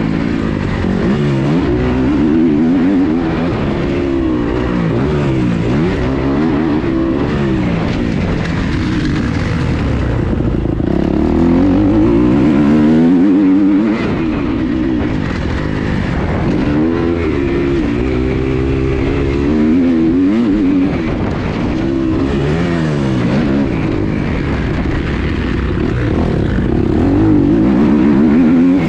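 Motocross bike engine, heard close from the onboard camera, revving up and dropping back again and again as the rider accelerates, shifts and backs off around the track.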